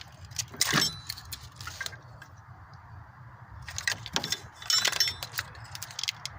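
Clicks and metallic rattling of an engine's fuel-injector wiring harness and its plastic connectors being unclipped and handled, in scattered clusters with a quiet pause in the middle.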